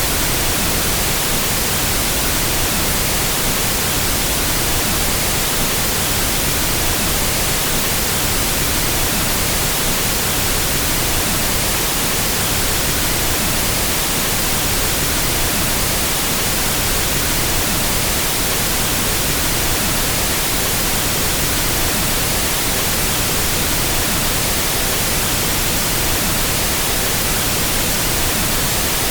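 Steady pink noise test signal used for equalizing audio systems: an even, unchanging hiss across the whole range with no tones or breaks.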